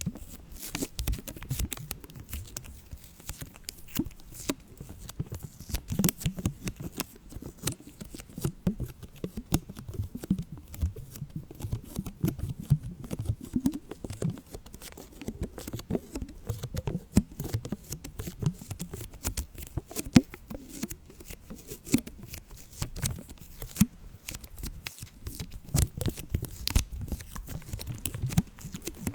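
Dense, irregular crackling and rustling clicks in a continuous stream, over a low rumble.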